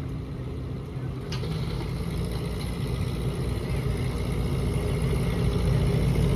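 Small Ford N-series tractor's four-cylinder engine running flat out under load as it drags a pulling sled, growing steadily louder. A single sharp click sounds about a second in.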